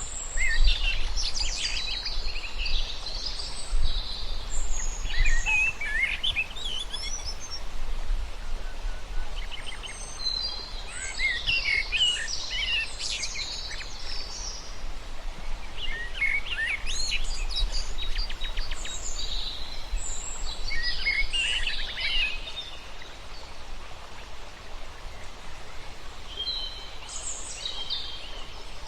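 Birds chirping and singing in bouts of rapid, high notes with short pauses between them, over a steady low rumble.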